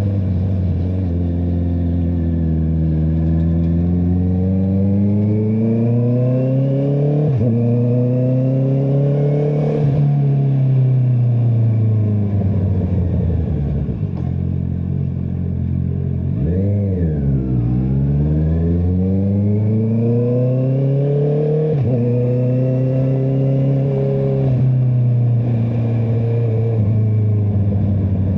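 Honda CBR650R inline-four engine through an Akrapovic exhaust, pulling hard with the revs climbing and dropping sharply at gear changes several times. About halfway through the revs fall away, dip briefly and then build again through more upshifts.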